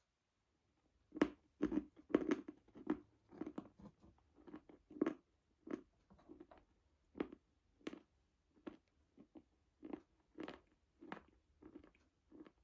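A person biting and chewing crunchy chalk close to the microphone. The crunches start about a second in and run on irregularly, about one to two a second, loudest in the first couple of seconds.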